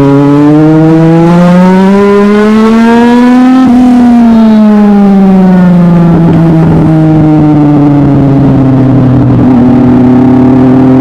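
Legend race car's Yamaha four-cylinder motorcycle engine running hard. Its pitch climbs steadily for about three and a half seconds, then falls away over the next few seconds as the car comes off the throttle, and settles to a steady drone.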